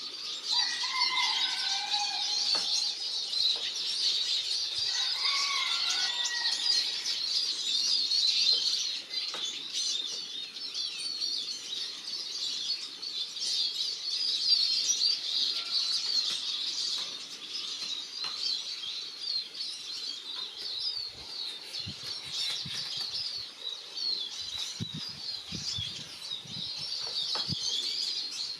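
A flock of siskins keeps up dense, continuous high twittering. Another bird whistles a couple of lower phrases in the first few seconds, and there are a few soft low knocks near the end.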